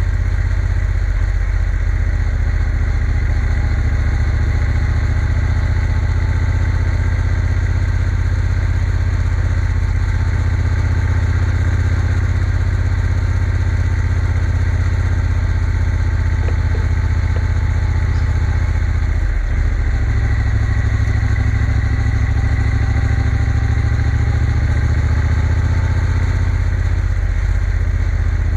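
Triumph Bonneville T120 motorcycle engine running steadily with a deep, even rumble, with one brief dip about two-thirds of the way through.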